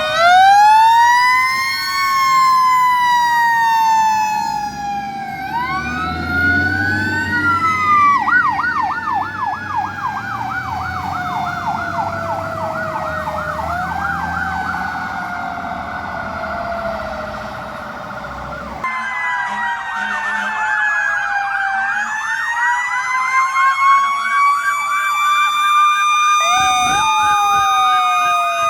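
Several fire engine sirens sounding together, overlapping long rising-and-falling wails with a fast yelp, over a low engine rumble that drops away about two-thirds of the way through.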